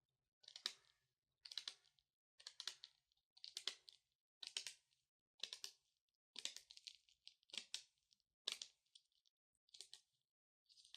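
Long natural fingernails clicking and tapping in short quick clusters, about one cluster a second, faint and crisp.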